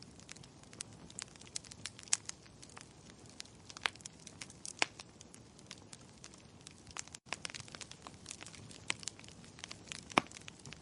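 Wood fire in a fireplace crackling: a low steady hiss with irregular sharp pops, several of them louder snaps, and a split-second dropout about seven seconds in.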